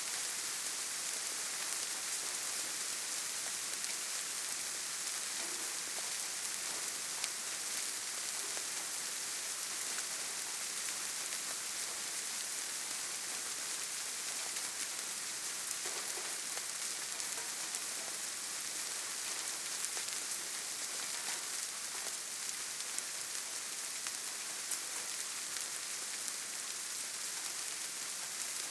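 Steady rainfall, a dense even hiss of drops with a few faint individual drop ticks scattered through.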